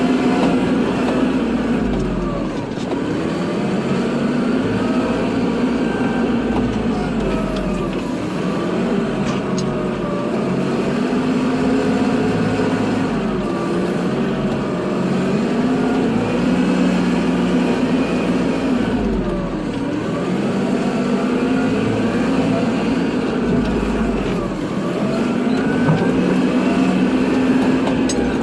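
Kubota tractor's diesel engine running under load while plowing snow. Its pitch rises and falls in repeated swells about every five seconds as the throttle and load change.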